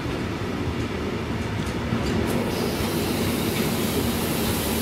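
A long freight train of coal wagons rolling slowly past, with a steady rumble and clatter of wheels on the rails. In the second half a faint high brake squeal comes in as the train slows to a stop.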